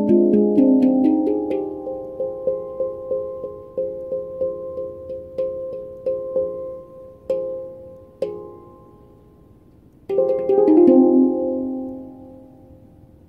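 Pantheon Halo handpan played in the La Sirena scale, its struck steel notes ringing. The notes come quickly at first, then slow to single strikes with ringing between them. After a short lull, a quick flurry of notes about ten seconds in rings out and fades away.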